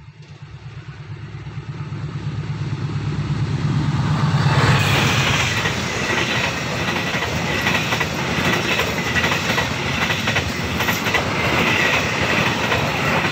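Diesel-hauled passenger train approaching and passing close by. A low engine rumble grows louder for about four and a half seconds, then the coaches rush past with the wheels clattering over the rail joints and a thin high wheel squeal now and then.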